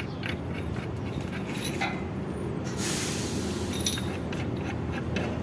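Steady low workshop rumble with a few light clicks and a short hiss about three seconds in.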